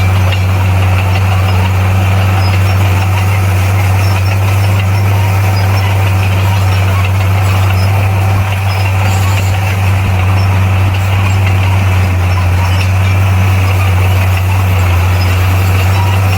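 Bulldozer's diesel engine running steadily at an even, unchanging pitch.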